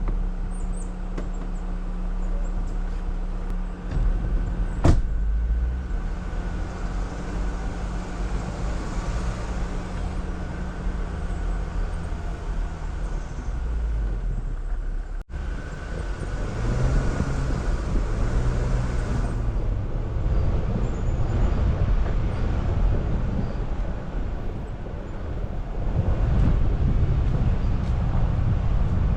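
Jeep Wrangler engine running steadily at low speed, with a single sharp knock about five seconds in. About halfway through the sound cuts out for an instant and resumes with more low rumble.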